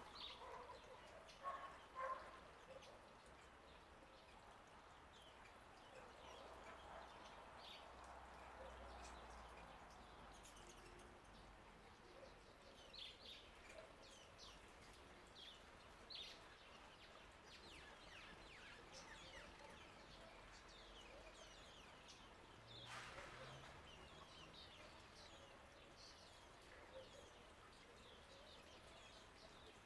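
Faint garden birds chirping, with short quick notes scattered throughout, over a soft hiss of water flowing in a bird bath fountain.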